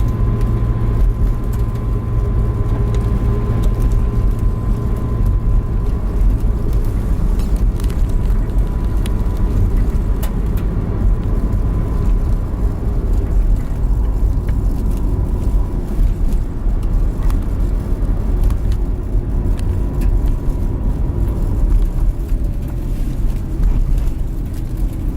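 Hotel van driving on a mountain road, heard from inside the cabin: a steady low rumble of engine and tyres, with a faint steady whine and occasional small rattles.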